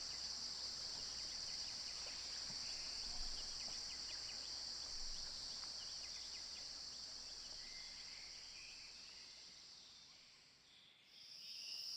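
Steady high-pitched insect chorus with a few faint short chirps over it; it fades down about ten seconds in and comes back near the end.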